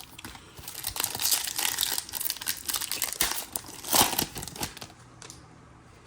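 Foil wrapper of a Panini Prizm basketball card pack crinkling as it is torn open by hand, with a louder crackle about four seconds in.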